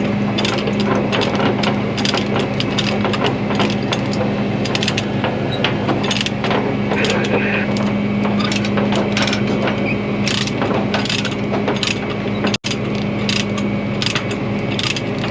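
Ratchet chain binder being cranked to tighten a tie-down chain, its pawl clicking in quick irregular runs, over a steady low hum.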